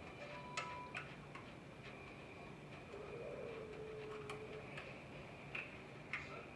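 Faint, scattered light clicks and taps of small parts and hand tools being handled while a truck's front wheel hub is fitted, over a faint steady high-pitched hum.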